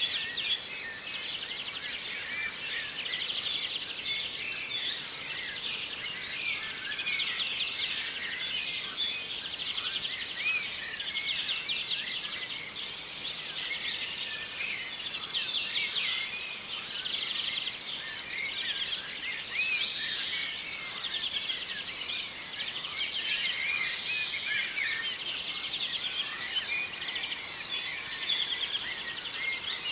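Dawn chorus: many songbirds singing at once, a dense, continuous mix of chirps, rapid trills and short whistled notes.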